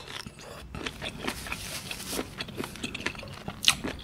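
A person chewing squid: a run of soft, irregular wet clicks and smacks from the mouth.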